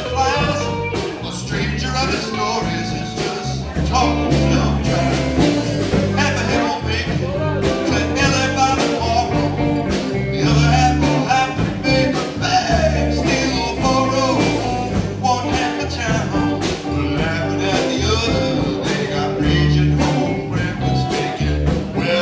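A band playing a rock song with a singer, electric guitar, bass and drums, the bass moving in steady notes under regular drum hits.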